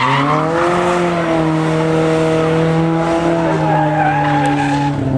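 Toyota AE86 Corolla's 4A-GE four-cylinder engine held at steady high revs while the tyres skid and squeal. The engine pitch dips briefly at the start, then holds nearly level.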